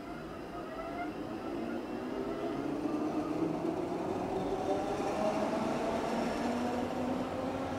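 Berlin S-Bahn class 480 electric multiple-unit train running past close by, its wheels rumbling on the rails under a whine from the electric traction equipment in several steady tones. It grows steadily louder as the cars go by.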